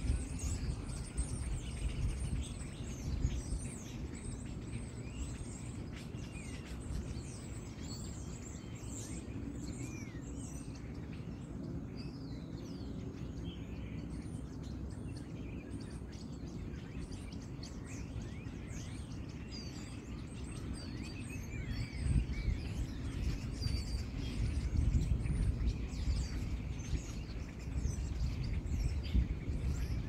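A crowd of small songbirds chirping and twittering, with many quick overlapping calls, over a low background rumble that swells louder near the end.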